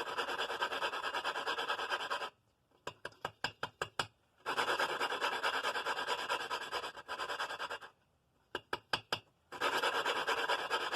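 Valve being lapped into its seat on a Briggs & Stratton 5 hp flathead engine: a suction-cup lapping stick is spun back and forth by hand, and the grinding compound makes a gritty rasping in three bursts of about two to three seconds each. Between the bursts come quick runs of light clicks.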